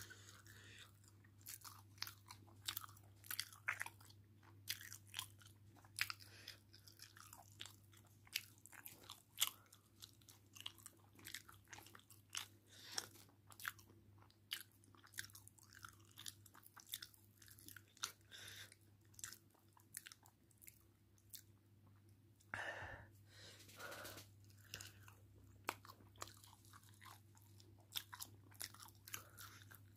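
Someone chewing chicken curry and chapati close to the microphone: irregular wet mouth clicks and smacks, over a steady low hum.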